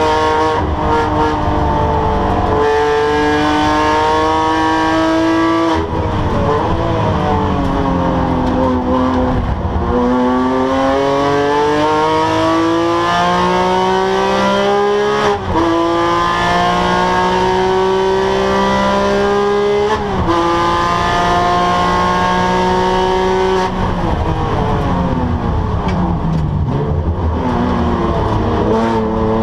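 Porsche 911 GT3's flat-six engine at racing speed: it slows early on, then accelerates hard with quick upshifts about 15 and 20 seconds in, and near the end the revs drop steadily under braking.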